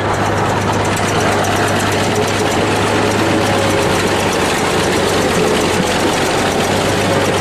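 Bulldozer's diesel engine running steadily under load, with a thin wavering whine above the rumble.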